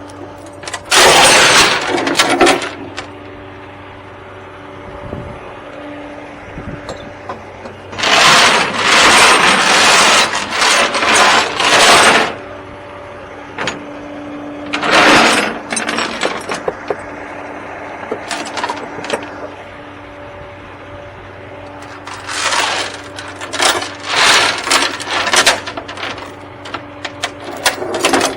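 A vehicle engine running with a steady hum, with several loud, noisy clattering bursts: one just after the start, a long run in the middle, and a cluster near the end.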